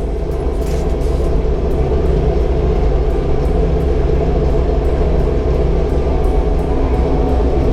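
A vehicle engine running loud and steady, a low rumble that builds over the first second and then holds.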